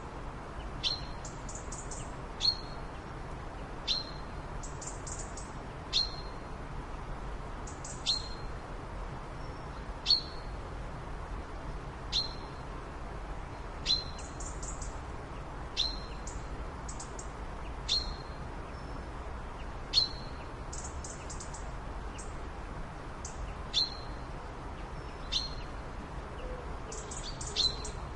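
A bird repeating a short, sharp high call about every two seconds, each a quick downward sweep onto a brief note, with fainter, higher twittering between calls, over steady background noise.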